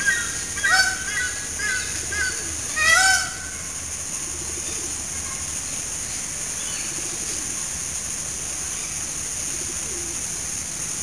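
Birds calling: a quick run of short rising-and-falling notes over the first three seconds or so, the loudest at the end of the run, then only a steady high hiss.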